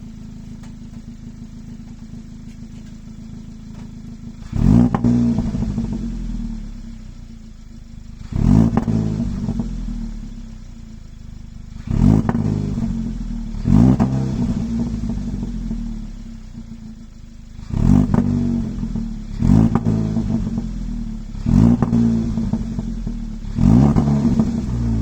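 Kia ProCeed GT's 1.6-litre turbocharged four-cylinder engine, heard through its factory valved exhaust, idling for about four seconds and then revved in about eight sharp blips, each falling back toward idle.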